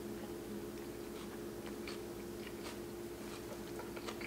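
A person chewing a mouthful of fish taco in soft tortillas, with faint scattered crunches and mouth clicks. A steady low hum runs underneath.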